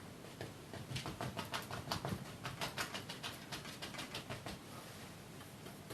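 Oil-paint brush flicked repeatedly against the canvas, a quick run of short scratchy strokes, about four a second, that stops about four and a half seconds in: grass being flicked up in wet paint.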